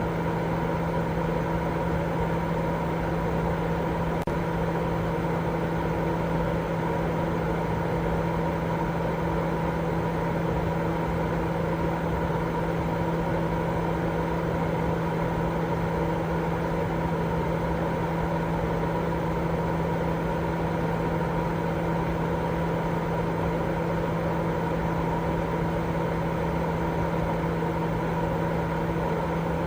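Continuous baby-sleep noise: an even, unchanging rushing hiss weighted toward the low end, with a steady low hum running through it.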